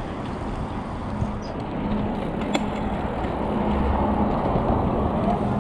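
Wind rushing and rumbling over the microphone of a bicycle in motion, with a faint steady hum and one sharp click about two and a half seconds in.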